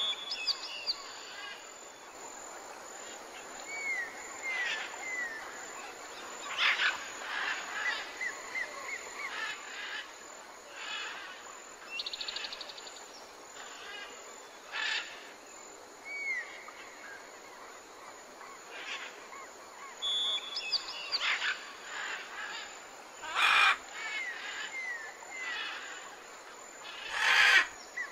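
Several birds calling and singing, with short falling whistled notes and louder brief calls every second or two, over a faint steady hiss. The same calls come round again about twenty seconds apart.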